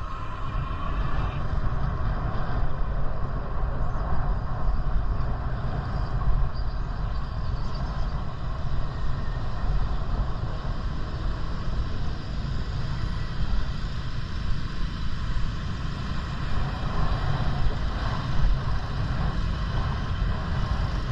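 Steady wind rumble buffeting the microphone while riding a bicycle, a noisy low rush that flickers in level.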